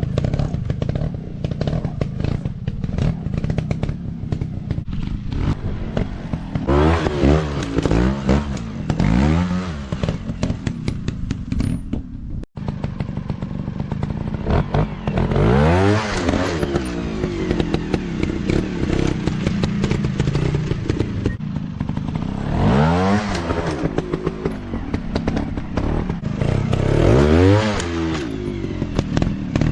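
Dirt bike engines revving hard in repeated bursts, rising and falling in pitch every few seconds as the throttle is opened and closed. The sound cuts out for an instant about twelve seconds in.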